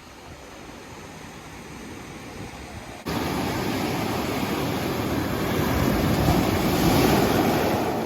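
Large ocean waves breaking on the shore: a steady wash of surf, then, after an abrupt cut about three seconds in, a louder rush of surf that swells to a peak near the end and starts to ease.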